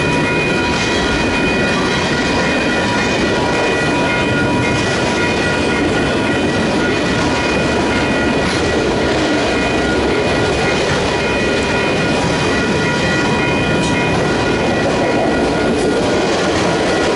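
Freight train rolling past: a steady, loud rumble of wheels on rails with light clickety-clack and a continuous high-pitched whine over it.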